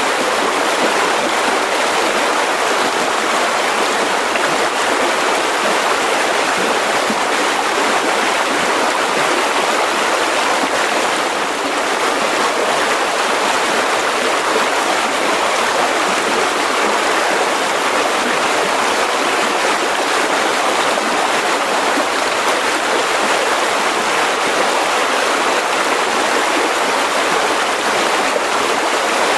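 Mountain river rushing steadily over rocks, a constant loud water noise with no breaks.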